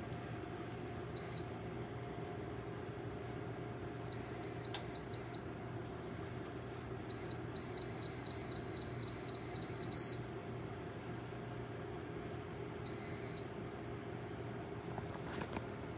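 Electronic beeps from a Dreo space heater's control panel as its buttons are pressed: a single beep, a few quick beeps, then a run of rapid beeps lasting about two and a half seconds, and one more beep near the end. Under them is the heater's steady fan hum.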